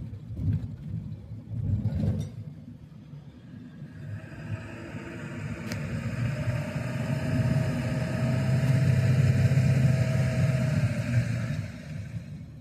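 Road vehicle noise on a drive: a low rumble with a steady whine swells from about four seconds in, peaks, then fades near the end. A few knocks come in the first two seconds.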